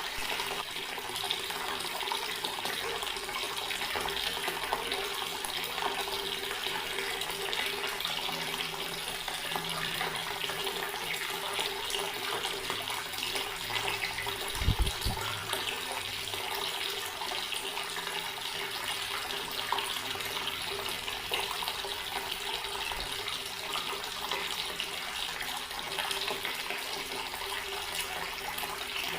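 Water running steadily from a tap, an even splashing stream with no change in flow. A brief low thump about halfway through.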